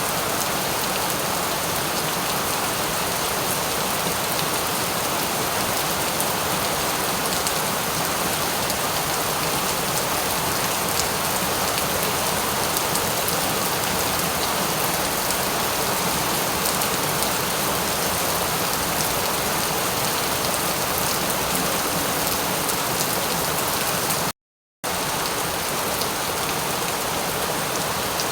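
Steady rain falling, an even dense hiss with fine patter of drops. Near the end it cuts out completely for about half a second, then resumes.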